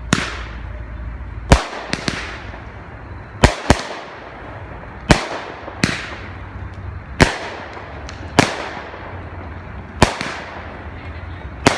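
Cutting Edge Fireworks' Dawg Tired, a 200-gram consumer cake, firing its flaming comet shots one after another: about eleven sharp bangs, roughly one a second and sometimes two in quick succession, each trailing off briefly.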